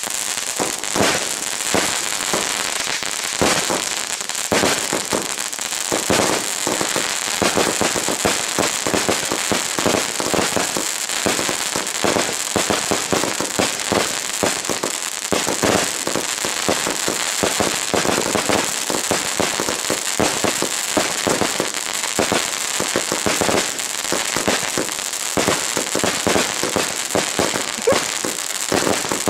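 Four Super Crackling Rainbow fireworks fired together, giving a dense, continuous barrage of crackling pops and bangs with no let-up.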